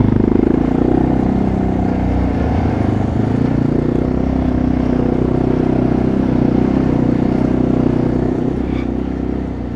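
Quad bike (ATV) engine running steadily under way, its pitch wavering slightly with the throttle.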